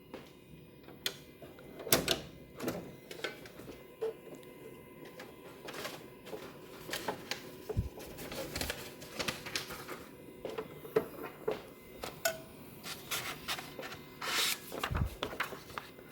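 Sheets of paper and a document scanner being handled: irregular clicks, taps and paper rustling, with louder knocks about two seconds in and again near the end.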